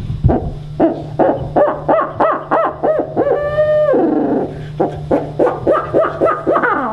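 Person imitating a barred owl: fast series of short rising-and-falling hoots, about four a second, broken by a long held hoo that slides down in pitch about four seconds in. This is the turkey hunter's owl locator call, used to make a gobbler sound off.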